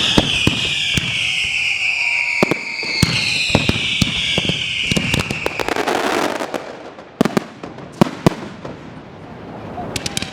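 Fireworks going off: a shrill whistling firework whine slowly falling in pitch for about six seconds, over scattered sharp bangs and crackles. A few louder single bangs follow, and a quick run of crackling comes near the end.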